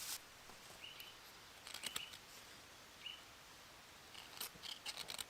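Faint, short dry scrapes and crackles in small clusters, from hands working a nest of dry bracken as fire-lighting tinder, with a small bird giving a few brief high chirps.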